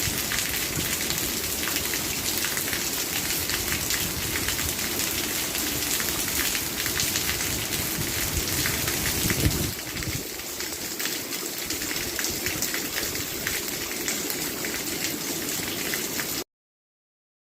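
Steady heavy rain falling, a dense patter of drops on a surface. About nine and a half seconds in there is a brief low swell, and about a second before the end the sound cuts off abruptly to dead silence.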